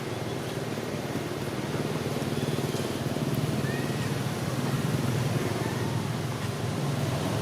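Steady low rumbling noise that swells slightly toward the middle, with a faint short chirp a few seconds in.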